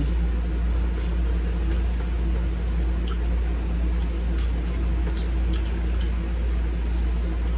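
Two people chewing bites of a flaky apple-pie pastry, with faint wet mouth sounds and a few light clicks, over a steady low hum.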